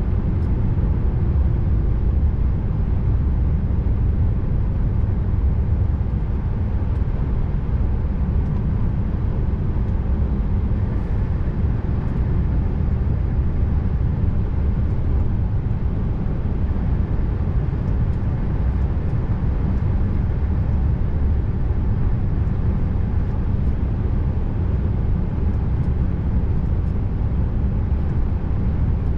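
Scania R590 V8 truck running steadily at road speed, a constant low engine drone mixed with road noise.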